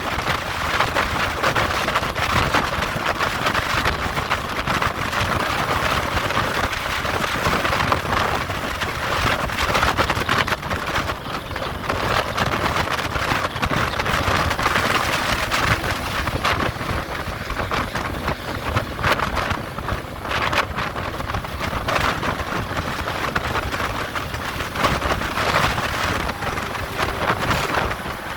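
Steady rushing of strong wind with a vehicle running, the level flickering as gusts come and go.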